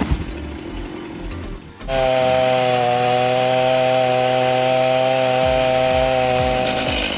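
Chainsaw running rough and quieter for about two seconds, then suddenly louder and held at a steady high pitch, cutting at full throttle for about five seconds.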